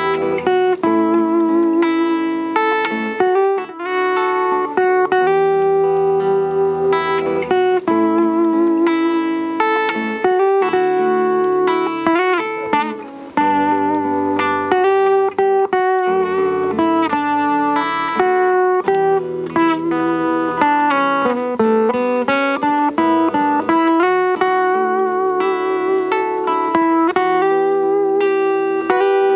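Music: a guitar playing a melody of plucked notes, with some notes bent in pitch.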